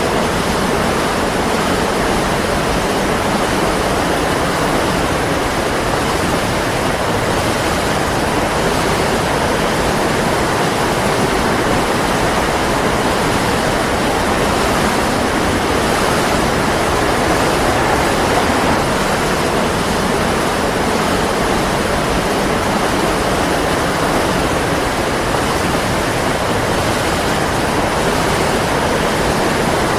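Waterfall: a steady, dense rush of falling water with no change in level.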